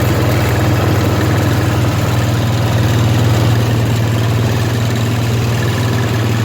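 Small Honda single-cylinder engine of about 6.5 HP idling steadily, running on gasoline vapour bubbled from a tank rather than on liquid fuel.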